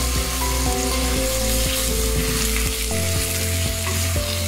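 Boneless chicken pieces and sliced onion sizzling in oil in a clay pot, stirred and turned with a wooden spatula.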